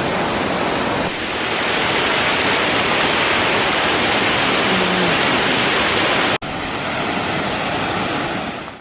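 Steady rush of falling water, as from a waterfall, cut off for an instant about two-thirds of the way through before resuming.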